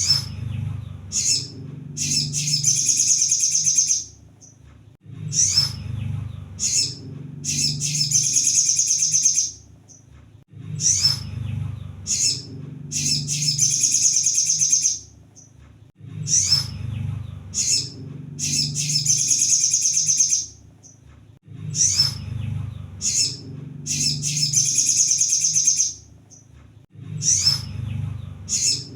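Crimson sunbird (kolibri sogon) singing high and sharp: a few short chirps, then a long, very fast trill. The phrase repeats about every five and a half seconds, with a low rumble under each one.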